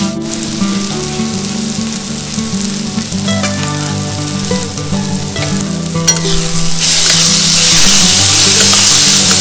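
Gobindobhog rice, tomato and spices sizzling in hot oil in a steel pan while a flat spatula stirs and scrapes through them, with a few sharp scrapes of the spatula. The sizzling turns much louder about seven seconds in.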